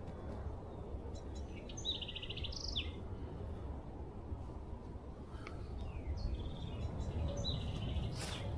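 Small birds calling in short trilled phrases, twice, over a steady low rumble.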